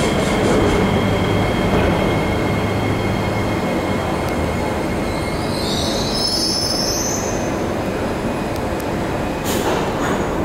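SMRT C151 train standing at the platform with its doors open, its on-board equipment giving a steady hum. A high, wavering squeal rises about five seconds in and lasts a couple of seconds.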